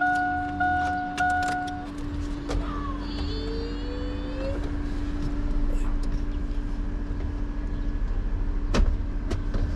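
A vehicle's warning chime sounds three times over a steady hum, then a low, rhythmic vehicle rumble builds from about two seconds in and runs on.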